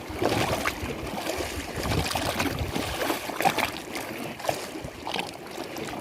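Lake water lapping and splashing, with small irregular splashes and gurgles over a steady wash.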